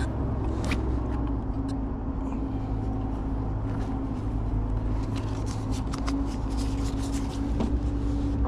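Steady low engine hum with a held mid-pitched tone, typical of an idling vehicle engine, with scattered small clicks and scrapes of hands working the tarp and glue.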